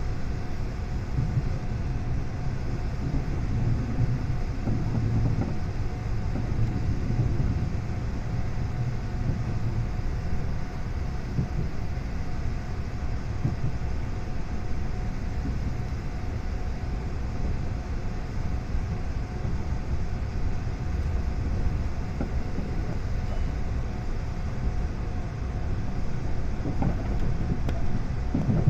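Running noise inside a JR 381 series electric train car as it rolls into the station: a steady low rumble of wheels on rail with a faint steady hum, and a brief louder burst near the end.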